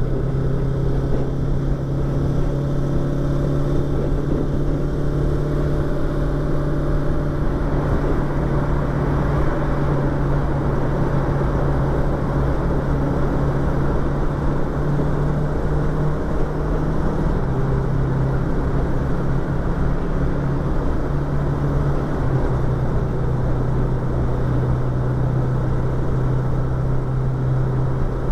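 Yamaha YZF-R25's 250 cc parallel-twin engine running at a steady cruise, with wind and road noise, heard from a microphone inside the rider's helmet. The engine note holds steady and shifts slightly a couple of times, around halfway and again later.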